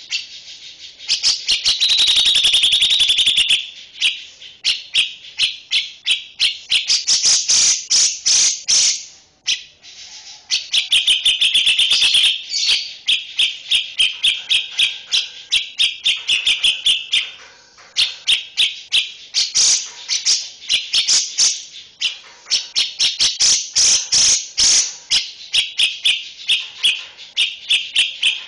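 Songbird master recording: a bird giving long runs of rapid, harsh repeated chirps and rattling trills, in bursts of a few seconds with short breaks between them.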